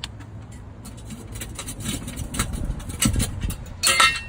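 Metal clicking and clanking over a steady low hum as the car is let down onto its wheels, with a loud rushing hiss starting near the end.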